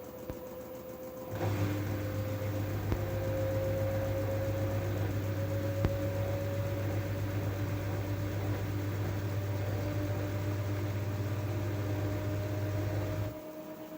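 LG F12A8ND front-loading washing machine spinning, its whine rising slowly in pitch as the drum speeds up. About a second in a low hum, typical of the drain pump, starts and runs until it cuts off abruptly just before the end.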